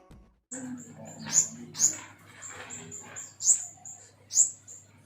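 A pentis kumbang songbird singing: a run of high, thin, sharp notes with four louder chirps that sweep downward in pitch, spaced about a second apart.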